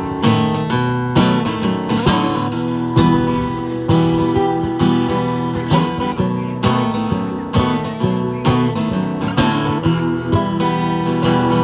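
Acoustic guitar strummed in a steady rhythm, playing a song's instrumental intro before the vocals come in.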